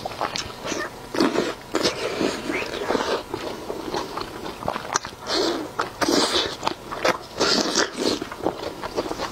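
Close-miked biting and chewing of spicy cold-pot skewers: bites taken off a sauce-coated skewer, then mouthful chewing, in irregular bursts.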